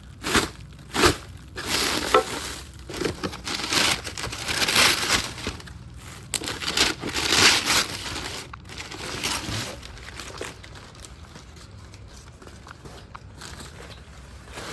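Packing paper crinkling, crumpling and tearing in bursts as a taped-up new suspension control arm is unwrapped. It eases off after about ten seconds.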